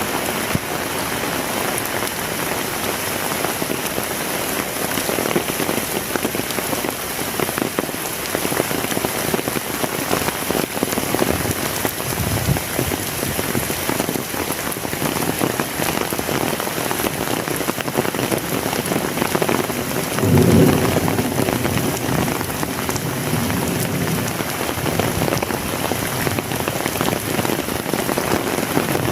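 Heavy rain falling steadily, with a dense patter of drops. About two-thirds of the way through comes a short, low rumble lasting about a second.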